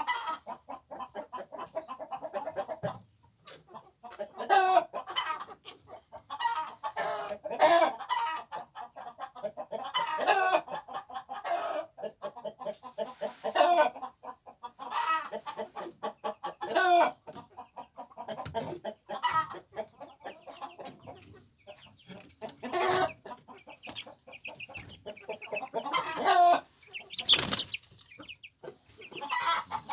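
A flock of chickens clucking and squawking, with a loud call every few seconds over steady lower clucking.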